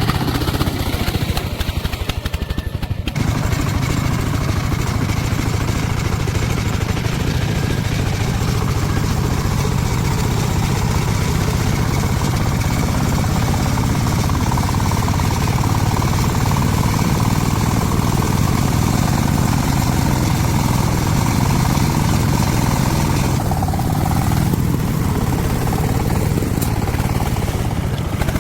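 A motor engine running steadily with a low, even drone, shifting briefly about three seconds in.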